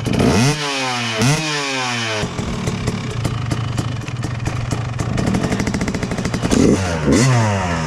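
Dirt bike engine idling, with two quick throttle blips near the start and two more near the end, the pitch jumping up and falling back each time.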